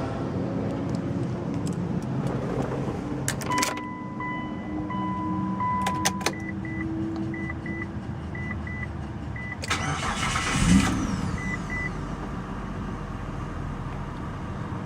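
A Mitsubishi Galant GTS's 3.8-litre V6 idling steadily. About three and a half seconds in, a couple of clicks are followed by a car chime: first a steady tone, then a string of short beeps that runs until about twelve seconds in. Around ten seconds in there is a brief loud rush of noise.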